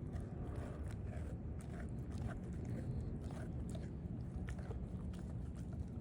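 Puppy chewing and biting on a raw meat patty: many small irregular clicks over a steady low rumble.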